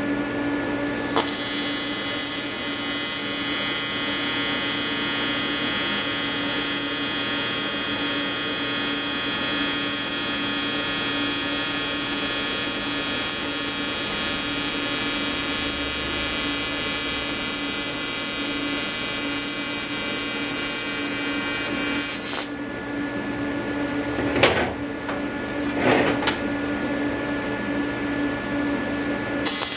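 AC TIG welding arc from an Everlast 325EXT on square wave, buzzing steadily while welding an aluminium intercooler. The arc strikes about a second in and runs for about twenty seconds before cutting off, with two brief blips afterwards and a fresh start at the very end.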